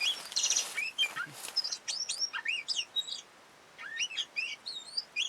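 Oriental magpie-robin (kacer) singing: a fast, varied run of whistled notes sweeping up and down, with a short harsh buzzy note about half a second in and a brief pause just past halfway.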